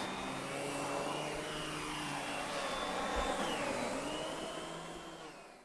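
Miele canister vacuum with an SEB 236 electric power nozzle running as it is pushed over the floor, a steady whir whose whine wavers slightly in pitch. It fades out near the end.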